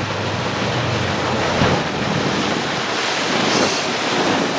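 Wind buffeting the microphone over the rush of water along a sailboat's hull while it is under way.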